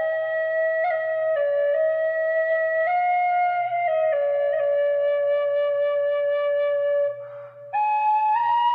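Celtic flute played solo: a slow melody of held notes stepping up and down, with a short breath about seven seconds in before it jumps to a higher note.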